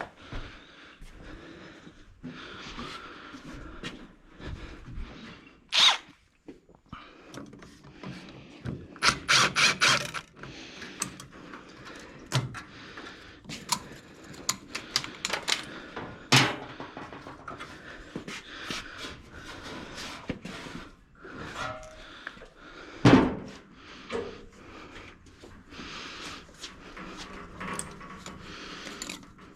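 Hand tools working on engine parts: scattered metal clinks and knocks, a quick run of clicks about a third of the way in, and one loud thunk about three quarters through.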